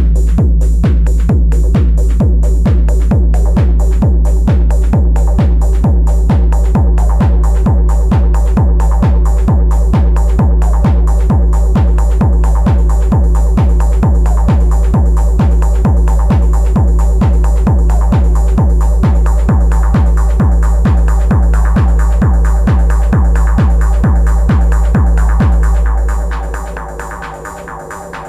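Improvised techno played on an Elektron Analog Rytm drum machine: a steady, heavy kick drum under a pulsing synth pattern, with fast hi-hat ticks that fade out about halfway through. Near the end the kick and bass drop out, leaving the quieter synth pattern on its own.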